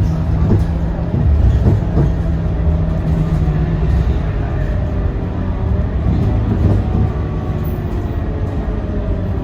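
Scania K230UB diesel bus under way: steady engine drone and road noise with a few knocks and rattles early on; the engine's steady low note drops away about four seconds in.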